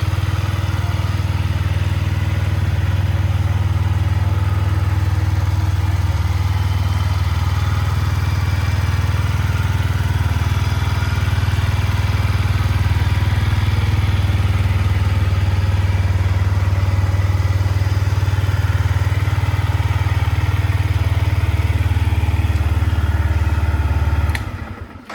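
Yamaha MT-125's 125cc single-cylinder four-stroke engine idling steadily, cutting off suddenly near the end.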